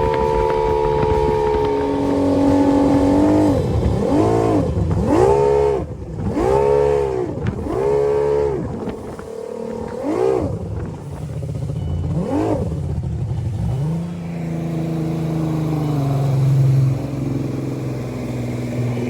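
Outboard motor of a bass boat, a 135 Mariner, running: a steady note at first, then its pitch rising and falling about once a second several times, before settling to a lower steady note.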